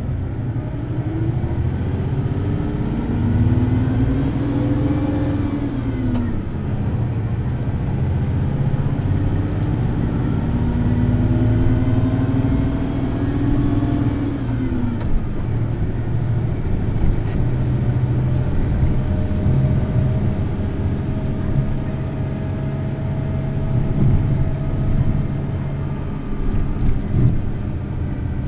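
Hino Blue Ribbon City Hybrid bus's diesel-electric drivetrain heard from on board while driving, run at high revs. A steady engine note carries three long sweeps of motor whine, each rising and then falling away, about seven or eight seconds apart.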